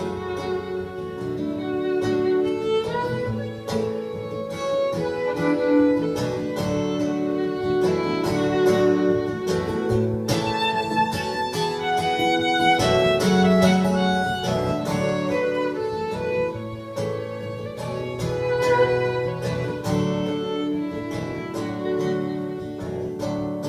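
Instrumental break of an acoustic folk song: a violin plays a melody over acoustic guitar.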